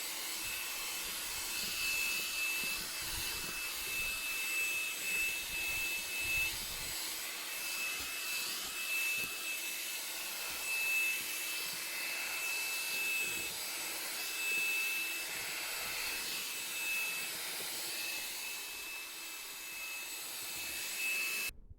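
Heavy rain falling, a steady hiss with scattered faint drip taps and a thin high whine underneath; it cuts off suddenly near the end.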